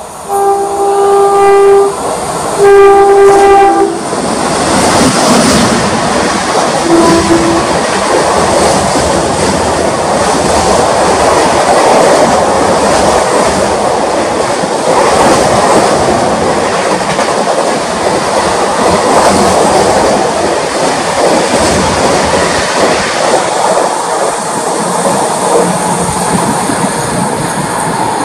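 WAP-7 electric locomotive sounding its horn in two long blasts, then an express train running through the station at speed: a steady rush and clatter of wheels as the coaches pass close by.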